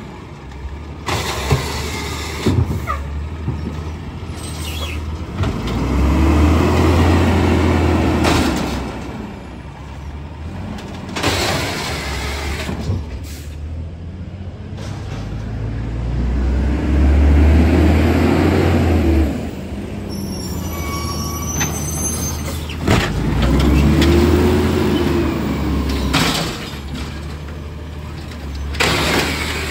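Garbage truck engine revving up and easing off about three times, as it does when working its lifting arm or packer. Sharp hisses of air brakes come in between the revs.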